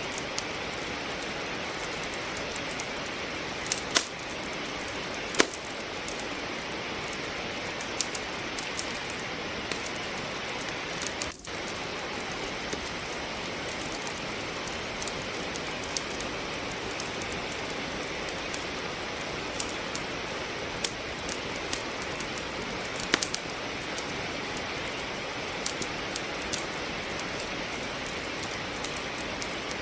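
Steady rain with scattered sharp pops and crackles of wood logs burning in a fireplace, two of them louder a few seconds in. The rain briefly dips for a moment about eleven seconds in.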